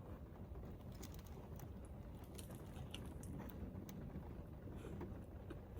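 Quiet chewing and biting into food, with scattered small clicks, over a low steady hum.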